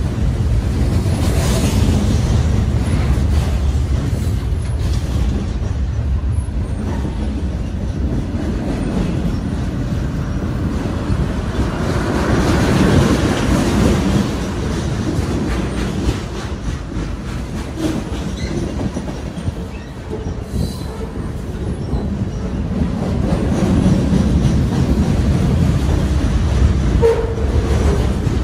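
Freight cars of a CSX freight train rolling past at close range: a steady, loud rumble and clatter of steel wheels on the rails, swelling about halfway through and again near the end.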